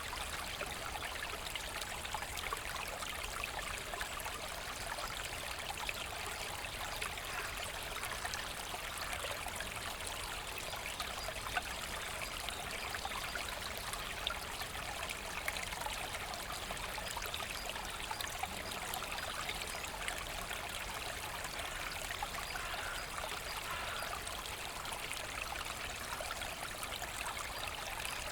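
Forest stream running and trickling steadily.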